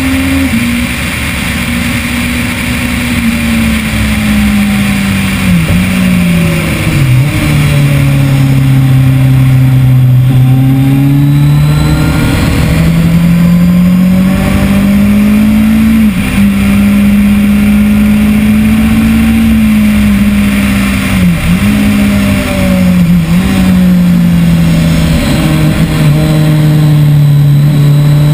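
2010 Kawasaki ZX-10R's 998 cc inline-four engine running hard at high revs on track, its pitch climbing and falling through the gears. Sharp brief dips in the note mark gear changes, and the revs drop deeply for a few seconds about six seconds in and again near the end.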